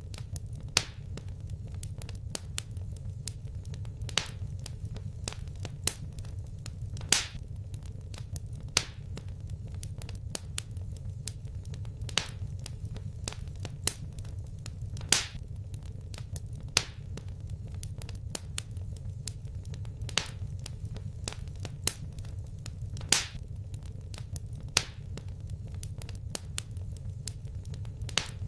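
Fireplace fire crackling: a steady low rumble under many small irregular snaps, with a louder pop every couple of seconds.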